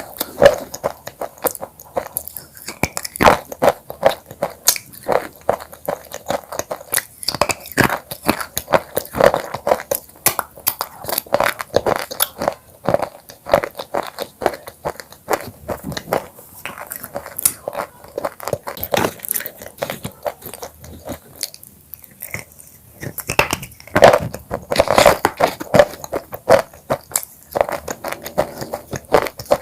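Crunching and chewing of crisp black chips: a dense, irregular run of sharp cracks and crackles, with a short lull about three quarters of the way through.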